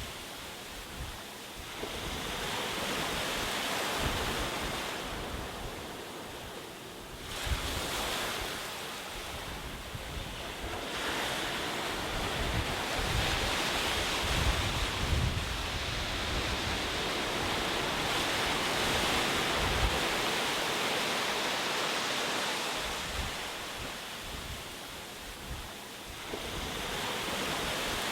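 Ocean waves breaking on a shore: a continuous wash of surf that swells and recedes every several seconds, with low wind rumble on the microphone.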